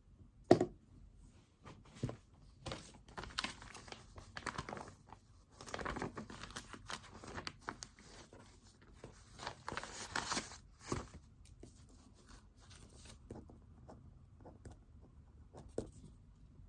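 Pen-and-paper sounds at a desk: scratching and paper rustling in irregular spells, with a sharp click about half a second in and a few faint ticks near the end.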